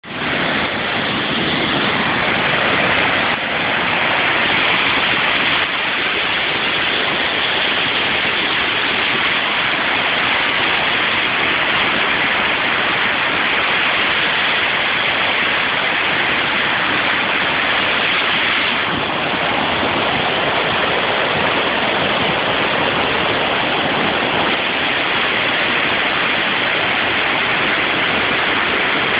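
River Douglas in spate after 24 hours of rain: fast floodwater rushing, a loud steady roar of water.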